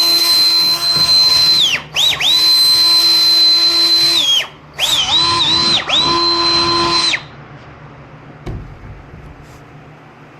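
A small electric power tool run in four bursts of one to two and a half seconds, its high motor whine spinning up and winding down with each pull of the trigger. A single knock near the end.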